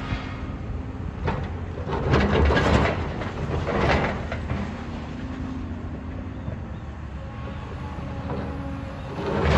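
Heavy demolition machinery running with a steady low rumble, with loud crunching crashes of breaking building debris about a second in, two to three seconds in, around four seconds in and again at the end.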